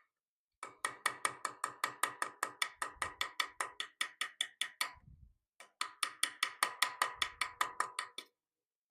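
Rapid light hammer taps on a small steel chisel, about six a second, each with a short metallic ring, cutting dovetail undercuts into a wrought iron cross-guard for copper inlay. The tapping pauses briefly about five seconds in, then carries on.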